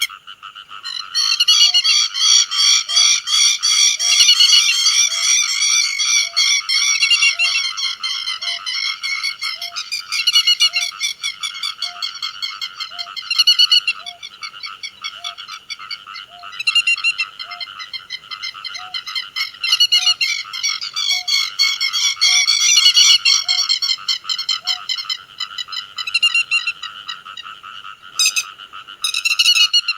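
Grey-headed lapwings calling, a dense run of sharp repeated calls from several birds overlapping without pause. Under them is a regular series of short low notes, about three every two seconds, which stops about five seconds before the end.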